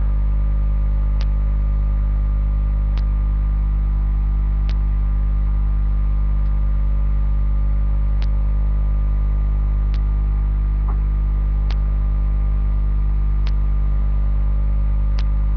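Loud, steady electrical mains hum with many overtones, picked up in the recording, with a faint sharp click repeating about every second and three quarters.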